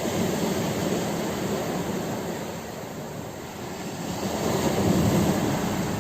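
Ocean waves breaking on a shore, a steady rushing that swells at the start, eases off, then surges again about five seconds in.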